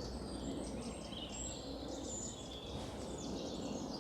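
Treecreeper giving thin, very high-pitched notes, some sliding down in pitch, over a steady low background rumble of distant aircraft.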